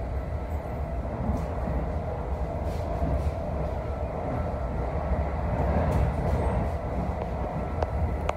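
Steady low rumble of a moving NJ Transit Multilevel passenger coach, wheels running on the rails at speed, heard from inside the car, with one small click near the end.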